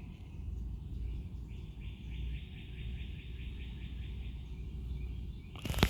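A high, rapid, evenly pulsed trill that starts about a second and a half in and stops shortly before the end, over a steady low hum.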